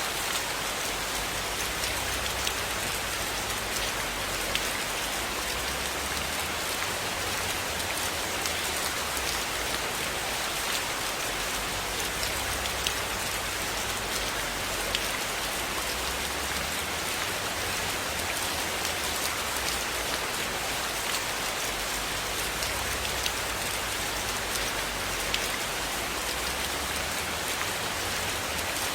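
Steady rain falling on a cabin roof, an even hiss of drops. A few faint pops stand out here and there, the crackle of a wood fire.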